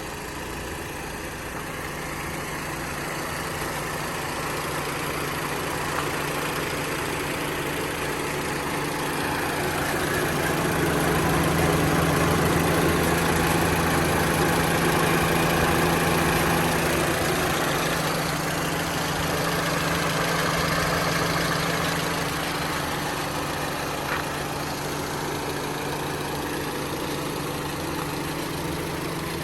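1990 Honda CRX Si's 1.6-litre four-cylinder engine idling at a steady pitch. It grows louder through the middle stretch, then eases back a little.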